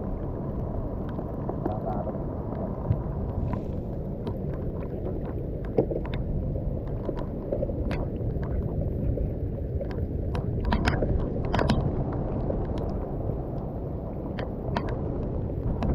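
Steady low rushing of rain and wind on the microphone, with scattered sharp ticks of drops and small splashes throughout.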